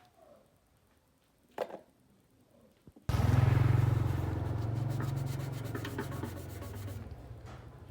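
A single click, then about three seconds in a power tool starts abruptly, running with a low hum and an abrasive rubbing noise, like sanding, that slowly fades.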